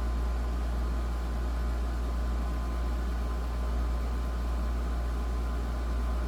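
A Frigidaire unit running steadily: an even rushing noise over a strong low hum.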